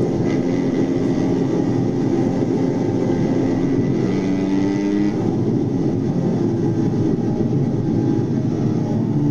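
A vehicle running, heard as a steady, dense low rumble with a brief pitched rise about four seconds in.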